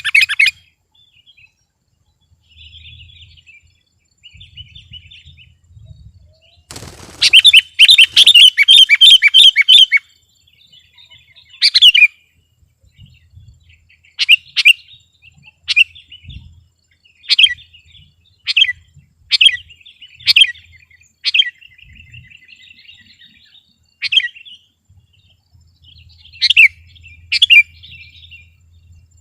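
Sooty-headed bulbul (kutilang) singing. Soft notes come first, then a brief rustle about seven seconds in and a loud run of rapid chattering notes for about three seconds. After that come short, sharp, falling calls, spaced about a second or so apart.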